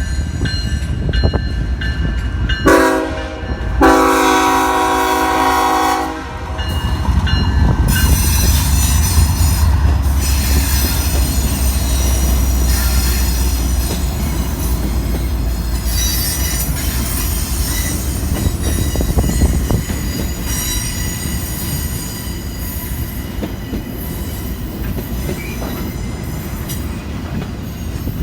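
Freight train locomotive horn sounding a short blast about three seconds in, then a longer one lasting about two seconds. The train then passes with a heavy low rumble from the locomotives, joined by steady high-pitched wheel squeal and the clickety-clack of the cars.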